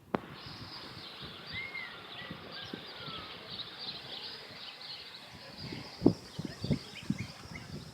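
Many small birds chirping and twittering over steady outdoor background noise, with a sharp click at the very start and a few low knocks about six seconds in.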